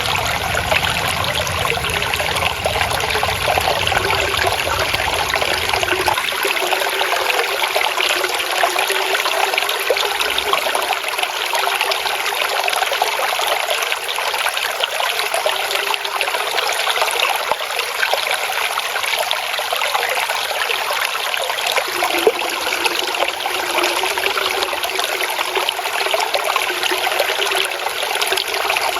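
Flowing water trickling and babbling steadily. The deeper part of the sound drops away about six seconds in.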